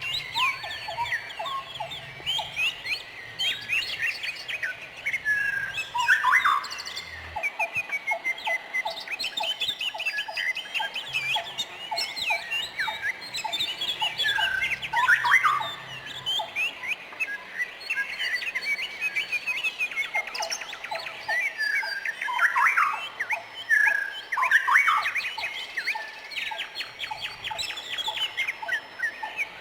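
Several songbirds chirping and singing at once, a busy tangle of quick high chirps and sweeping whistles, with runs of a lower note repeated rapidly several times a second.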